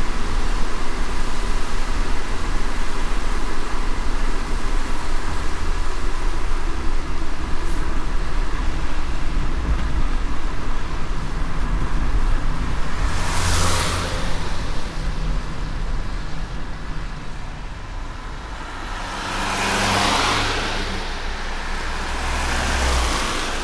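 A car driving in light rain: a steady low road rumble under an even hiss. Three brief whooshes swell and fade, one about halfway through and two near the end.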